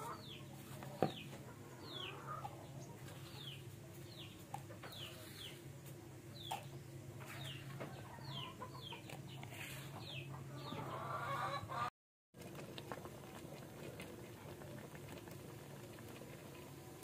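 Chickens: a run of high peeps, each falling in pitch, about two a second, with some lower clucking mixed in. The peeping stops after about ten seconds, and after a short dropout only a low steady hum is left.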